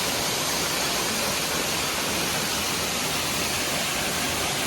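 Waterfall: a steady, even rush of falling water close by.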